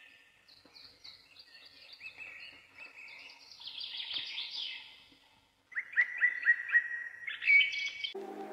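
Birdsong: high chirps and short falling calls, then a run of quick, repeated falling notes about six seconds in. Music starts just at the end.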